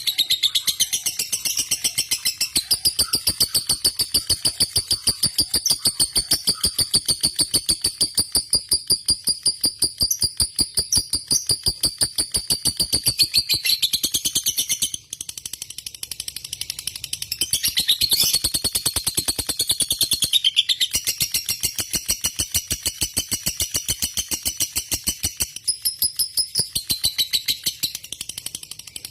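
Lovebird singing in a long, almost unbroken run of rapid high chirps, the long-duration chatter prized in a fighter lovebird. It breaks off briefly about 15 seconds in and again just after 20 seconds.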